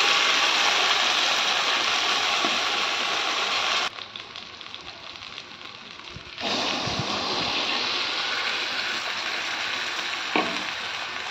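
Ground coconut-and-spice paste sizzling as it is poured into hot oil in a kadai, then bubbling as it starts to cook. The sizzle drops away for a couple of seconds near the middle, then comes back and slowly fades.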